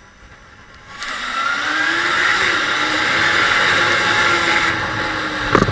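Motorcycle engine, a Honda CB250 Hornet's inline-four, opening up about a second in, its pitch rising and then holding high and steady under load. A sharp knock sounds near the end.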